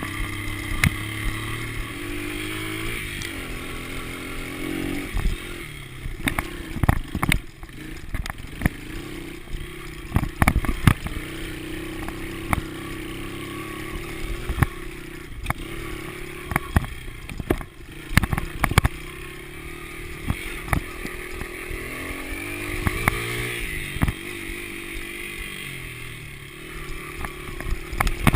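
Honda XR80 dirt bike's small single-cylinder four-stroke engine running, its pitch rising and falling as the throttle is worked. Frequent sharp knocks and clatter come from the bike jolting over rough ground, thickest through the middle.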